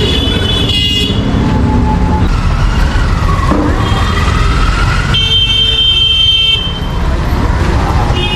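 Busy street traffic: engines rumbling underneath and high-pitched vehicle horns honking again and again, one held for about a second and a half just past the middle.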